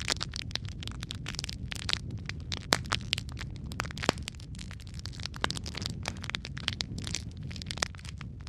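Wood fire crackling in a fireplace: irregular sharp pops and snaps over a steady low rumble, with two louder pops about three and four seconds in.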